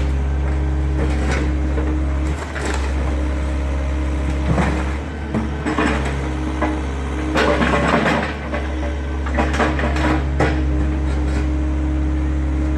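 Excavator's diesel engine running steadily under load, with several bursts of crunching and cracking as the machine breaks up the garage's wooden structure.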